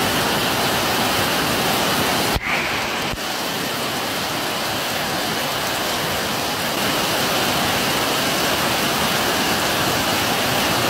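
Heavy rain pouring down on a flooded street and on shop awnings, with water streaming off the awning edges: a steady, dense hiss.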